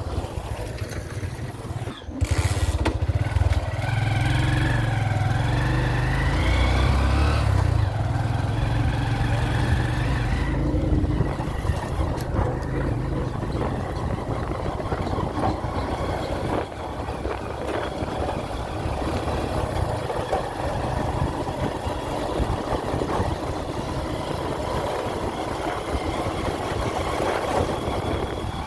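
A vehicle engine running while driving over a rough dirt road, revving up in rising pitch between about four and seven seconds in, then running steadily.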